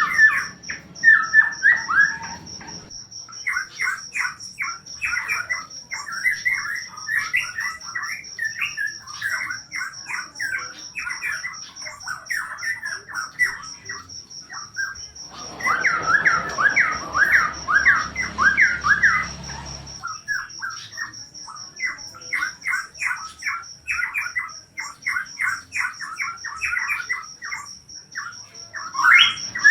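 A cucak pantai (cupan) songbird singing in long runs of rapid, chattering notes with brief pauses, louder for a few seconds in the middle. A cricket chirps steadily underneath in a continuous high trill.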